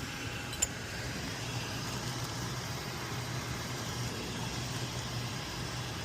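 Steady low mechanical hum with a constant droning pitch, like nearby running machinery, with one light metallic click just after the start.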